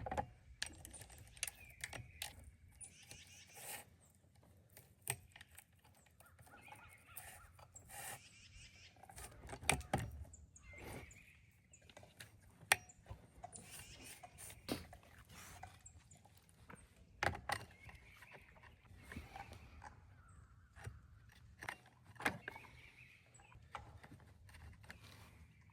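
Irregular knocks and clatter throughout, with bird calls now and then.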